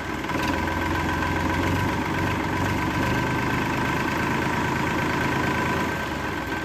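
Motor of a DIY miniature tractor running steadily, a low hum with a faint steady high whine.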